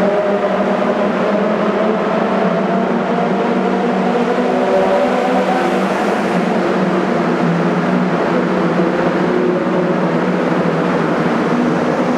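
Sports car engine running at a steady cruise in a road tunnel: an even, continuous drone with only slight rises and falls in pitch, over a steady rushing noise.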